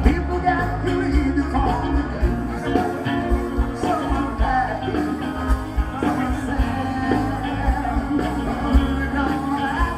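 Rock band playing live, with a singer over the band.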